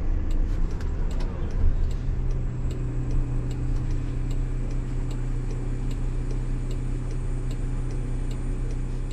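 A car's turn-signal indicator ticking steadily, about one and a half ticks a second, over the low hum of the cabin on the move.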